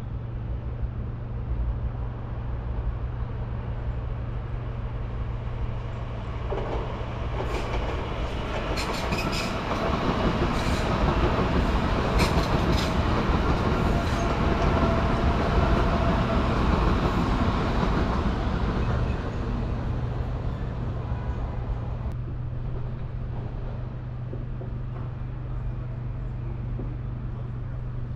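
A train passing: its sound swells from about six seconds in, is loudest for several seconds with a run of sharp clicks from the wheels, then fades away. A steady low hum runs underneath throughout.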